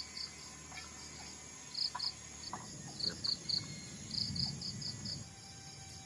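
Crickets chirping in short pulses that come in irregular groups, over a steady high-pitched insect buzz, with a few faint clicks.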